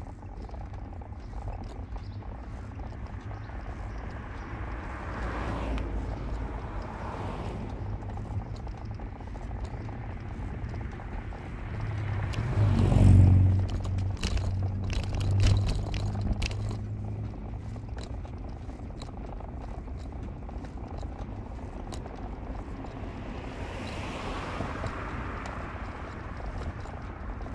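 Steady road and engine noise of a car driving in town, with other vehicles passing by; the loudest pass, about halfway through, brings a low hum that swells and fades.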